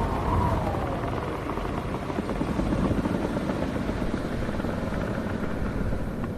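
Howling wind: a wavering, whistling howl that rises and falls and fades in the first second, leaving a steady low rumble of gusts.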